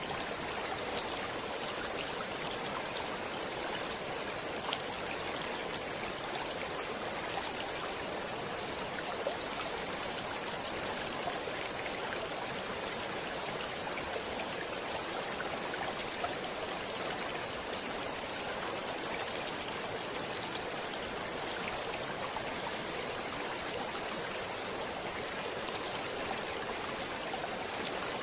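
Stream water running, a steady even rush with fine splashing throughout.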